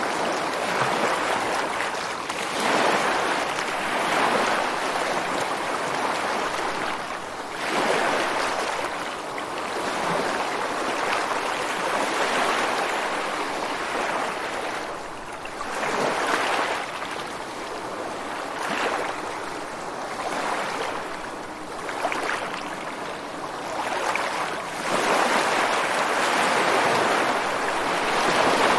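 Ocean surf breaking on a beach: a steady wash of water that swells as each wave crashes and fades as it runs back, with about half a dozen surges.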